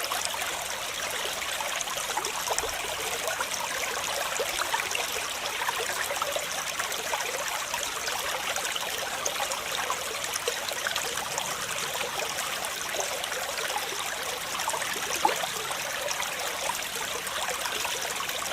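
Running water rushing and splashing steadily, an even hiss flecked with small splashes, with one slightly sharper splash about 15 seconds in.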